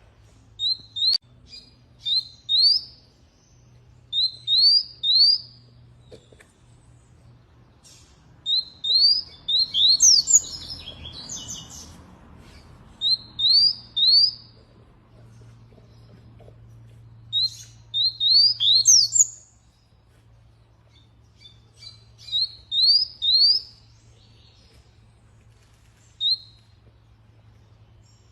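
Canary chirping in clusters of two to four quick, high notes, each sweeping upward, repeated with short pauses between the clusters.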